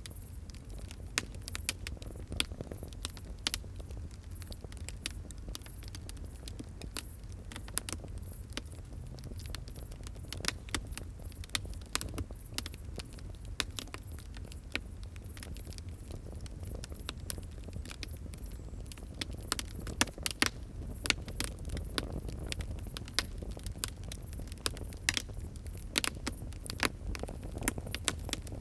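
Wood fire crackling, with frequent sharp pops and snaps over a soft low rumble of the flames; a run of louder pops about twenty seconds in.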